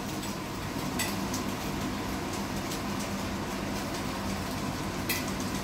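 Chicken pieces frying in a hot pan: a steady sizzle over a low steady hum, with a sharp clink about a second in and another near the end.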